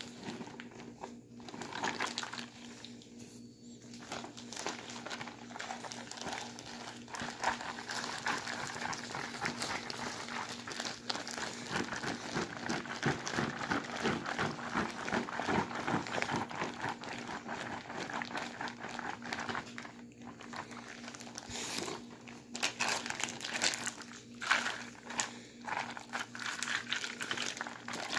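Plastic bag crinkling and rustling continuously as a bag of ice and salt, holding a bagged drink, is shaken and squeezed to freeze the drink into slush; the crinkling briefly eases twice about two-thirds of the way through.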